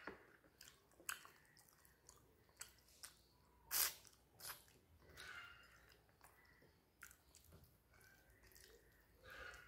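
Faint, close-miked eating sounds: chewing and wet mouth and lip smacks while fish head curry is eaten by hand, with scattered sharp clicks, the loudest a little before four seconds in.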